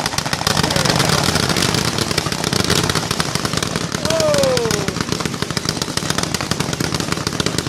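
Firecrackers going off in a dense, rapid crackle of pops that runs on without a break.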